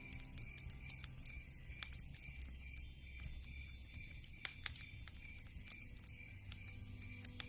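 Campfire crackling, with irregular sharp pops and snaps over a low rumble, and a faint high chirp repeating about three times a second behind it.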